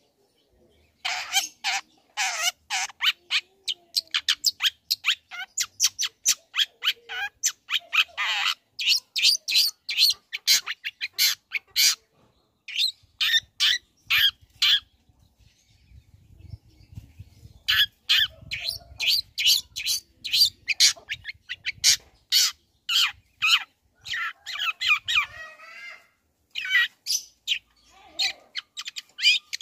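Long-tailed shrike (cendet) singing a fast, chattering song of short sharp notes and harsh scratchy phrases, pausing for a couple of seconds about halfway through before starting again.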